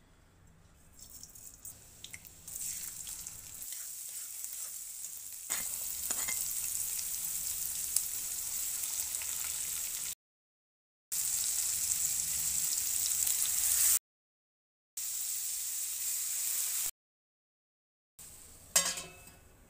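Chopped onion, tomato and shredded cabbage sizzling and frying in hot oil in a kadhai, stirred with a metal spatula that clinks and scrapes against the pan now and then. The sizzle builds over the first few seconds and cuts off suddenly several times.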